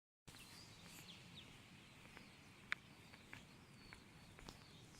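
Faint outdoor background with small birds chirping now and then and a few sharp clicks, one louder click about midway, starting after a brief moment of dead silence.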